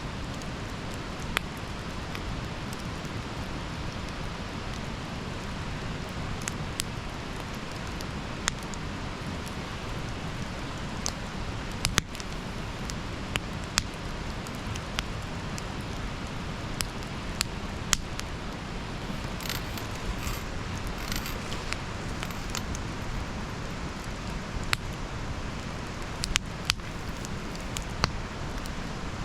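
Wood campfire burning: a steady hiss with sharp single pops every second or two and a short flurry of small crackles about twenty seconds in.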